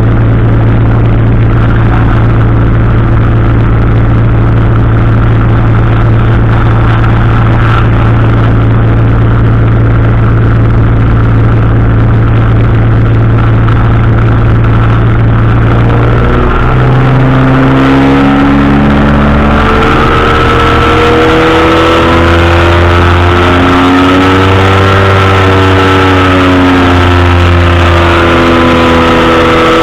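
Powered parachute's engine and propeller running loud and steady; about sixteen seconds in the pitch drops, then the engine speed rises and falls in slow waves.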